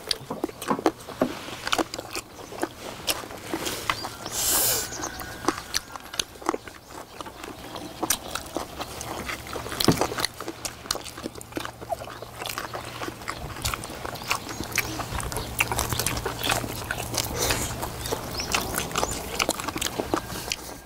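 Close-miked chewing and mouth smacking of several people eating braised beef short ribs, with irregular clicks of chopsticks on bowls and plates, and a short hissing sound about four and a half seconds in.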